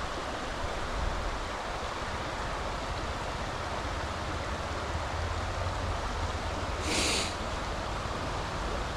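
Steady rushing outdoor noise with a fluctuating low rumble, and a brief hiss about seven seconds in.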